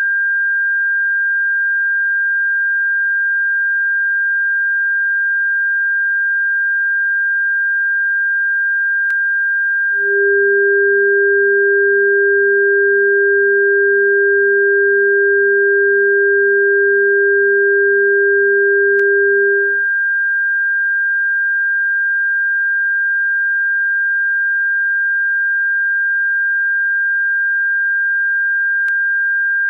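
Electronic bird-repellent tone: a steady, high-pitched pure tone held without change. A second, lower steady tone joins about ten seconds in and drops out around twenty seconds. Faint clicks come about every ten seconds.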